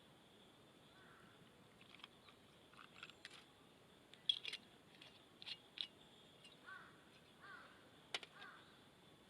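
Quiet outdoor ambience: scattered light clicks and knocks, and two short, distant bird calls near the end, perhaps crow caws, over a faint steady high hum.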